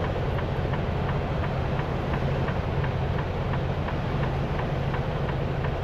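Semi-truck running, a steady low engine and road drone heard inside the cab, with faint regular ticking over it.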